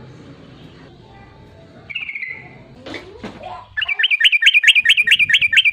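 Yellow-vented bulbul singing: a short falling note about two seconds in, then, in the second half, a loud, fast run of repeated rising-and-falling notes.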